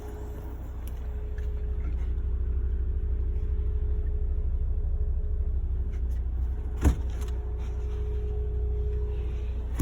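Kia Ceed 1.6 CRDi diesel running with a low rumble and a steady humming whine over it from a failing fuel pump. Two short knocks, one about seven seconds in and one at the end.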